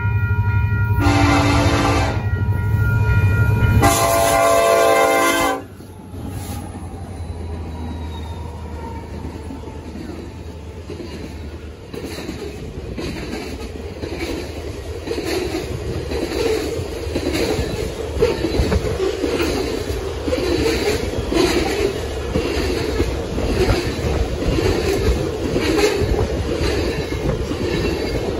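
Canadian Pacific diesel freight locomotive sounding its horn in several blasts, the last one long and loudest as the locomotives pass with a heavy engine rumble. The horn stops suddenly, and a long string of loaded tank cars rolls by with a rhythmic clickety-clack of wheels over the rail joints that grows louder.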